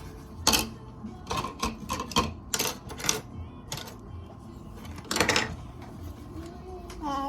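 Plastic toy coffee-machine parts clicking and knocking as they are handled: a scatter of sharp clacks, the loudest about five seconds in. A child's voice starts near the end.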